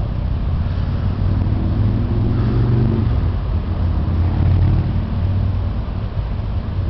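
Steady low rumble of a moving car's engine and road noise, with the engine note rising for a second or so between about one and three seconds in.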